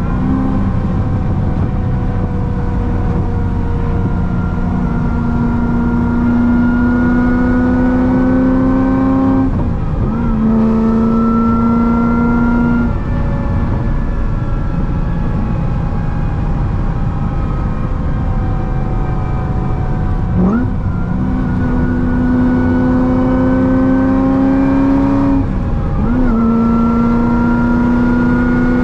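Supercharged 6.2-litre V8 of a C6 Corvette ZR1 with a Kong 2650 supercharger, running at highway speed. Its pitch climbs slowly as it pulls, and three times (about 10 s in, about 20 s in and near 26 s) it dips sharply and picks straight back up.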